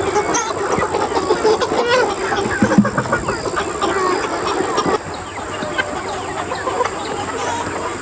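A flock of chickens clucking and calling, many birds at once. The flock grows a little quieter about five seconds in.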